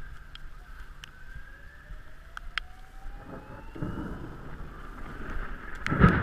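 A distant siren slowly rising in pitch, over light wind and scattered ticks, with a thump near the end.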